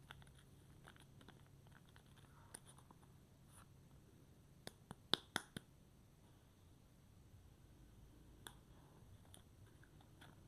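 Soap packaging being handled: faint scattered taps and clicks, with a quick run of about five sharp clicks about five seconds in.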